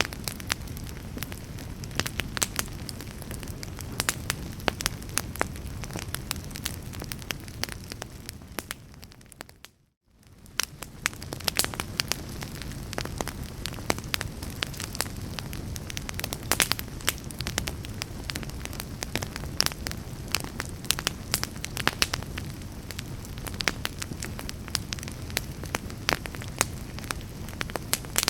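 Wood fire in a fireplace crackling and popping over a steady low rumble. About ten seconds in it briefly fades out to near silence, then fades back in.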